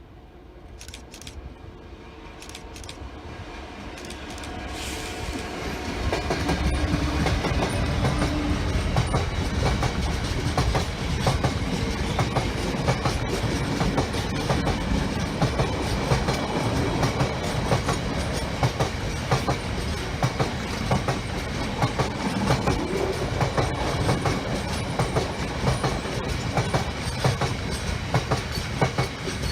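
Train approaching and passing close by: a low rumble that grows louder over the first six seconds, then a sustained clatter of wheels over the rail joints that continues to the end.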